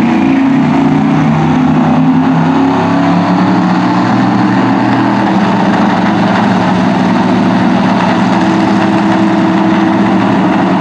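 Drag race car engine running steadily at low revs, loud and rough, its pitch holding level without revving up.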